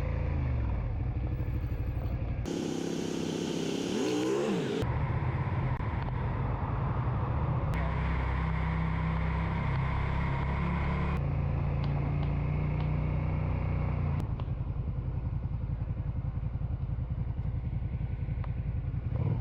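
Motorcycle engine running while riding in traffic, with a low steady drone and road or wind noise. The sound changes abruptly several times, and a short stretch with more hiss and a pitch that sweeps up and down comes about three seconds in.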